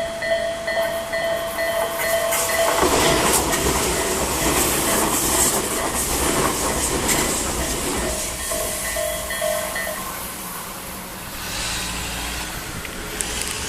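A Japanese level crossing bell ringing in a steady, repeated pattern. About three seconds in, a Tobu Ryomo limited express electric train runs through the crossing, its wheels clacking over rail joints for about seven seconds. The bell comes through again as the train fades and stops about ten seconds in.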